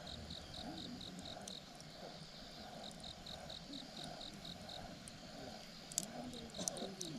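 Crickets chirping at about five chirps a second over a slower, lower pulsing insect or frog chorus. A few sharp crackles from the campfire come near the end.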